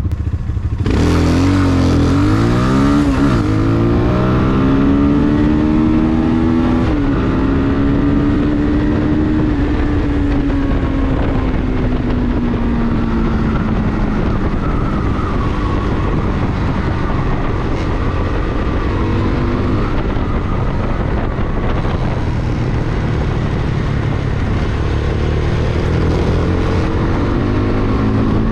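Vento Alpina 300 motorcycle engine under way: it picks up about a second in and climbs in pitch in steps through gear changes over the next several seconds, then the pitch falls slowly as it eases off, with smaller rises later on. A steady rush of road and wind noise runs underneath.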